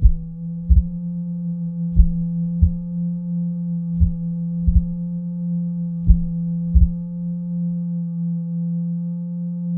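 A steady, low electronic drone tone with fainter higher overtones. Over it come pairs of short low thumps, roughly every two seconds, which stop about eight seconds in.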